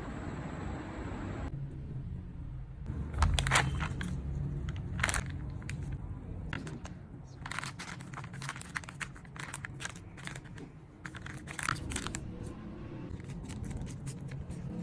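Food-preparation handling sounds: irregular crinkles, rustles and small clicks in bunches, over a low steady hum.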